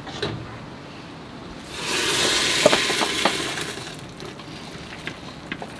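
Food sizzling in a hot pan on a gas stove: a burst of sizzling about two seconds in that fades away over the next two seconds, with a couple of light clinks from a utensil.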